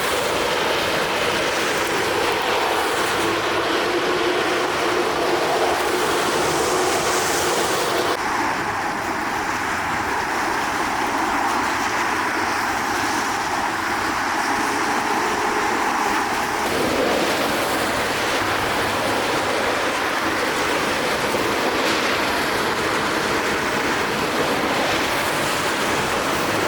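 Steady loud engine roar with a hiss, its pitch and colour shifting abruptly about 8 and 17 seconds in.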